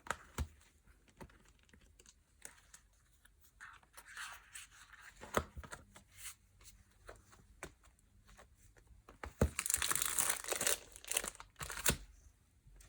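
Packaging being handled and crinkled by hand, with scattered crackles and clicks, then a louder stretch of tearing and crinkling about two-thirds of the way in lasting a couple of seconds.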